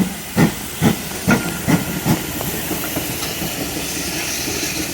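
Steam locomotive exhaust beats, a little over two chuffs a second, fading over the first two seconds into a steady hiss of steam.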